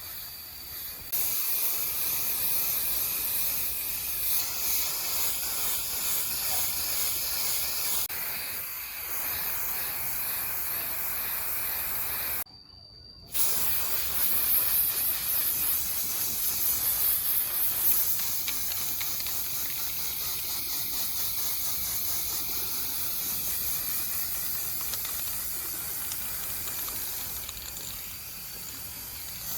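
Steady high-pitched hiss of a spray, such as an air-driven spray gun or blaster used on the fan's parts, in several takes with a brief break just before the middle.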